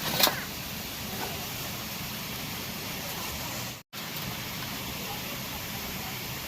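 Steady rushing of a waterfall, with one sharp click about a quarter second in; the sound cuts out for a moment just before four seconds in.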